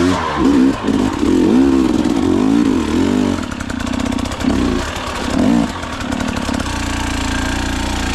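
Enduro dirt bike engine revving up and down in a series of throttle blips, with two shorter blips after that, then settling into a steadier, lower run.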